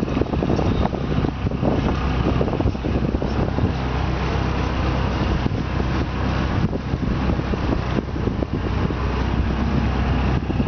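Motor launch under way, its engine running steadily as a constant low drone under a loud rushing noise, with wind buffeting the microphone.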